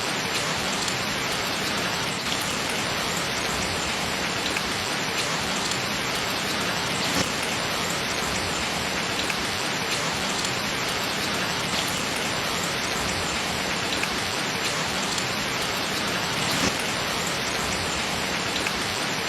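Steady rain falling, with scattered individual drops ticking sharply.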